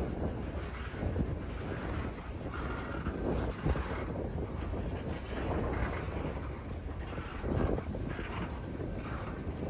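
Freight train running past, a steady low rumble with wind buffeting the microphone.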